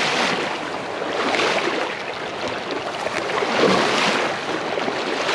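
Fast-flowing river water rushing and splashing close to the microphone: a steady noise that swells and eases.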